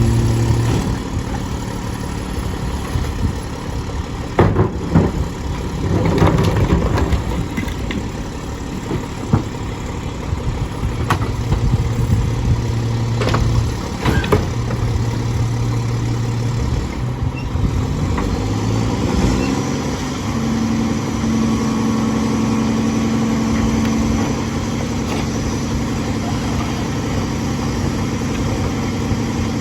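Mack LE garbage truck's diesel engine idling steadily, then running up to a higher, steady speed about two-thirds of the way through. Several sharp knocks and clatters in the first half.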